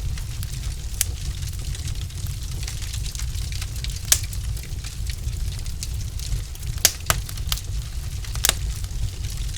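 Wood fire burning in a fireplace: a steady low rumble with scattered sharp crackles and pops, the loudest about four seconds in and a cluster of them between seven and eight and a half seconds.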